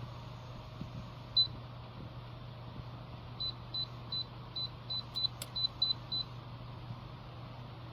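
Electronic space heater's control panel beeping as its buttons are pressed: one beep, then a quick run of about ten short, identical high beeps, with a couple of sharp clicks among them, over a steady low hum.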